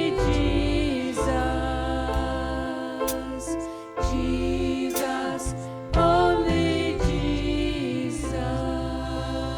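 A hymn: singing voices with instrumental accompaniment, long bass notes held and changing every second or two.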